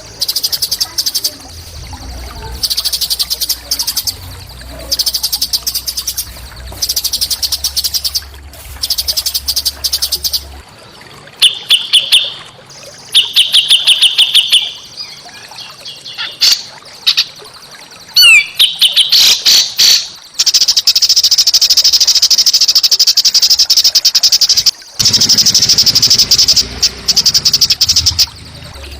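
A small songbird sings loud, harsh, rapid chattering trills in bursts of about a second, separated by short pauses. Around the middle come clearer whistled phrases and a quick rising-and-falling whistle, then one long trill lasting about four seconds.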